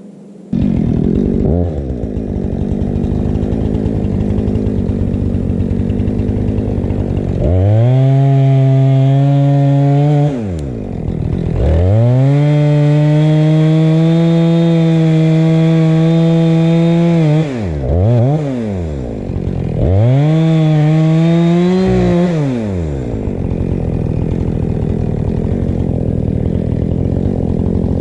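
Chainsaw engine idling, then revved to a high pitch in two long stretches of about three and six seconds, with shorter blips after them. It drops back to idle between each burst.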